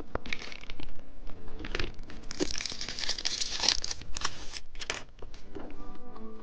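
Plastic candy wrapper being crinkled and torn open: sharp crackles with a dense stretch of crinkling in the middle. Music with steady notes comes in near the end.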